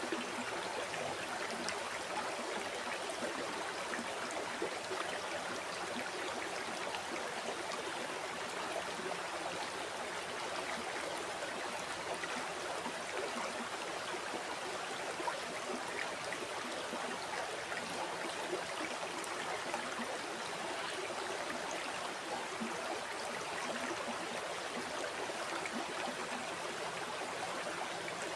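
River water flowing over rocks: a steady rushing and babbling with small splashes, unchanging throughout.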